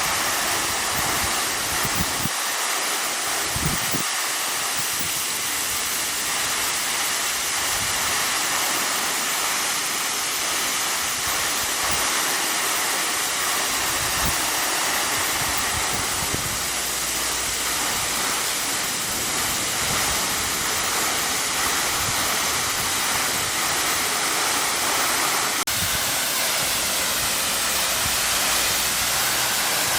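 A tall vertical waterfall, about 38 m high, pouring down steadily. Its water makes a loud, even rush that does not change.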